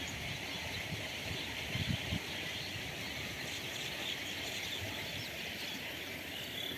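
Small birds chirping over a steady high hiss of outdoor ambience, with a few low thuds about two seconds in.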